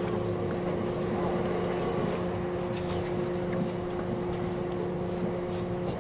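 Cabin noise of a JR E657-series limited express train running at speed: a steady rolling rumble from the wheels on the rails, with a steady hum of several tones that cuts off near the end.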